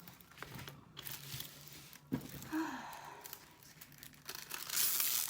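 Plastic film on a diamond painting canvas crinkling and rustling as it is handled, in irregular bursts that are loudest near the end.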